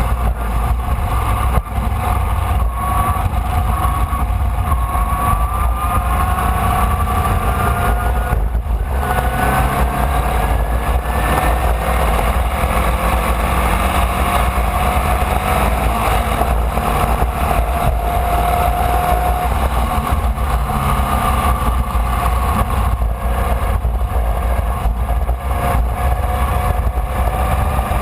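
Formula Vee race car's air-cooled Volkswagen flat-four engine at racing speed, its pitch climbing and falling as it accelerates and lifts, with a brief drop about eight seconds in. Heavy low rumble of wind and road noise lies under it.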